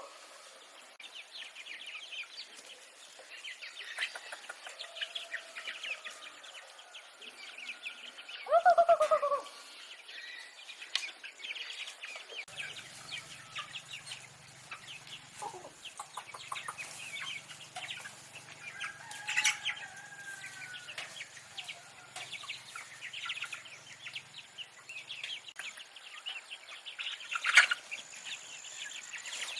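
Chickens clucking, with one loud, arched call about nine seconds in, over dense high chirping. A sharp knock sounds near the end.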